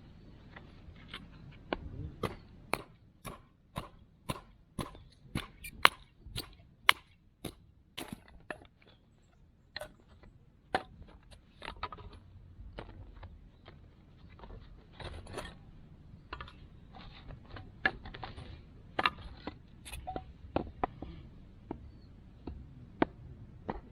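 A run of sharp knocks, about two a second and fairly even for several seconds, then more irregular knocks with some scraping.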